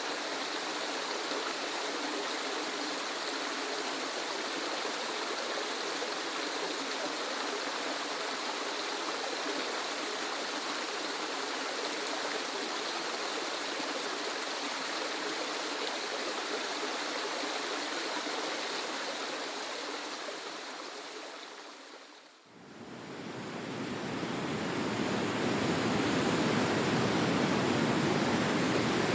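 Steady rush of falling water from a waterfall recording, which fades out about three-quarters of the way through; a different waterfall recording, fuller and deeper, then fades in and runs louder.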